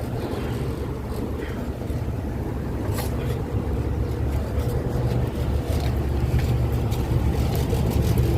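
Steady low machine hum and rumble of running package air-conditioning units, growing slightly louder, with a few faint clicks.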